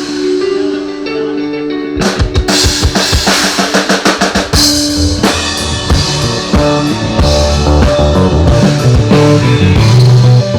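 Rock band playing in a sound check, led by the drum kit: held notes for the first couple of seconds, then steady kick, snare and cymbal hits, with a bass line growing louder toward the end.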